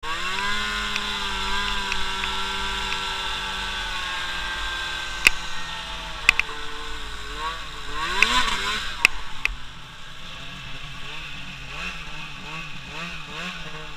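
A small engine running with a steady note, then its pitch rising and falling over and over in the second half, with a few sharp clicks in between.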